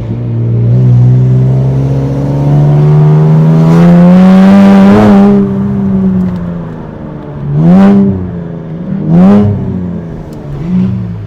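E85-tuned Infiniti Q60 twin-turbo V6 pulling hard, its pitch climbing steadily for about four seconds and then falling off as the throttle is lifted. This is followed by two quick rev blips and a smaller third one.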